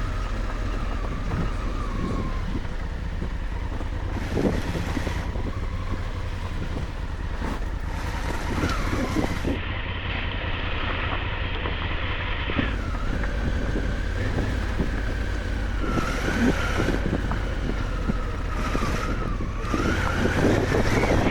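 Honda Africa Twin parallel-twin engine running at low trail speed, its pitch rising and falling with the throttle. Scattered knocks and rattles come from the bike going over rough ground, with wind on the microphone.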